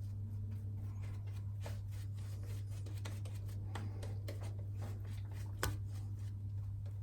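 Quiet handling of shaving gear: scattered light clicks and taps, with one sharper click a little before six seconds in, over a steady low hum.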